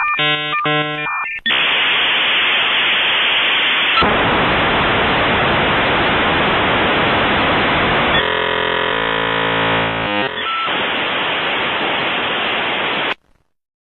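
Dial-up modem connecting over a phone line: a quick run of dialing tones, then the long hiss and screech of the handshake, with a buzzy pitched stretch about eight seconds in. It cuts off shortly before the end.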